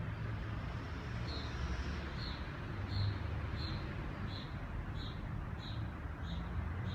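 A small animal chirping: a short, high chirp repeated evenly about every two-thirds of a second, starting about a second in, over a steady low rumble.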